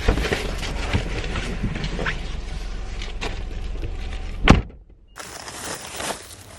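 Steady low rumble inside an idling car, then a car door shutting with one sharp thunk about four and a half seconds in.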